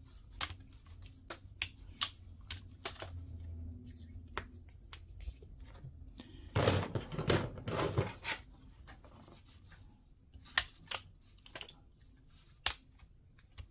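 Scattered sharp plastic clicks and snaps from handling small plastic model-kit parts and runners, with a louder stretch of rustling and clatter about seven to eight seconds in.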